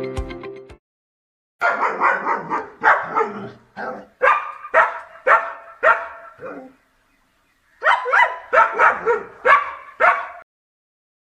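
Dog barking in two runs: a string of sharp barks about two a second, a pause of about a second, then a shorter string of barks.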